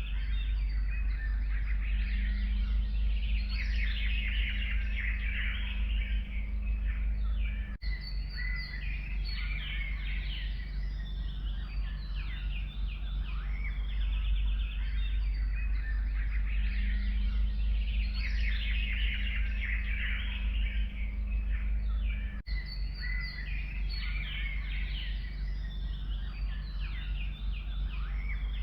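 Several forest birds singing at once, a dense mix of chirps and trills, over a steady low rumble, with two momentary dropouts.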